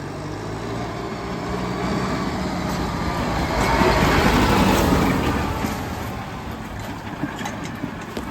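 Kubota tractor's diesel engine running, growing louder to a peak about four seconds in and then fading again, as a vehicle does when it passes close by.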